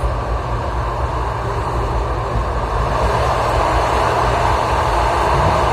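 Steady rumble and rush of a moving passenger train heard from inside the carriage, growing a little louder about halfway through.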